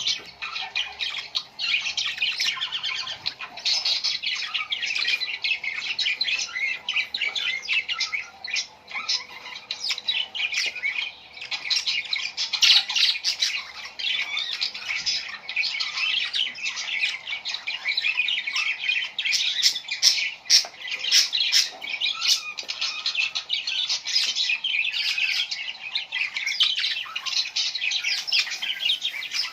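Many small birds chirping and squawking together in a dense, unbroken chatter of short, high calls.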